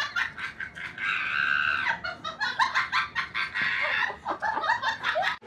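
Chickens clucking in a rapid run of short calls, with two longer squawks, about a second in and again near four seconds.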